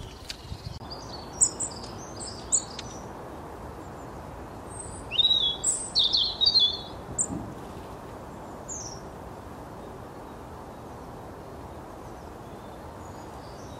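Small birds chirping in short, high-pitched bursts, in two clusters, over a steady outdoor background noise.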